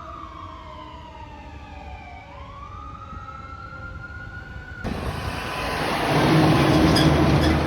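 Emergency vehicle siren in a slow wail, falling in pitch and then rising again. About two-thirds of the way through it gives way abruptly to the louder rush of a heavy vehicle passing close, with a low steady drone, growing louder toward the end.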